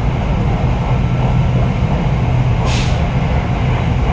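SRT Red Line electric commuter train running, a steady low rumble and hum, with one short hiss a little under three seconds in.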